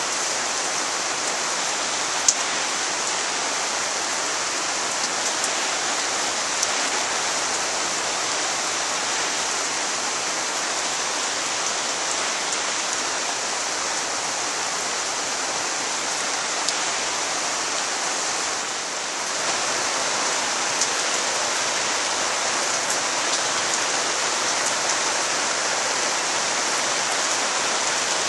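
Soaking rain falling steadily: a dense, even hiss of rain, with scattered sharp ticks of drops striking close by, the loudest about two seconds in.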